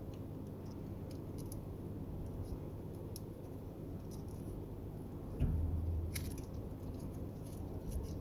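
Small clicks and scrapes of tools working the old LCD panel loose from a tablet's plastic frame, over a steady low hum. A heavier knock comes about five and a half seconds in.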